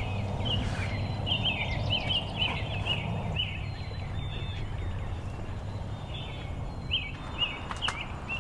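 Small birds chirping outside, a quick run of short high notes, several a second, in two spells, over a low rumble that eases about three seconds in. A few sharp clicks come near the end.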